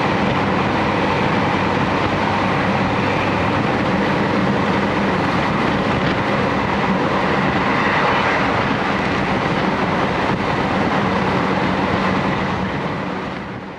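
Steady running noise of a JR Hokkaido Series 711 electric train at speed, heard inside the passenger car, with a low steady hum. The sound fades out near the end.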